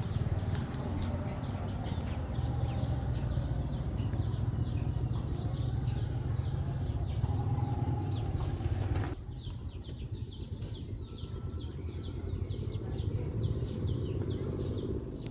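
A bird chirping over and over, short falling chirps about three a second, over a low rumbling background noise that drops away abruptly about nine seconds in.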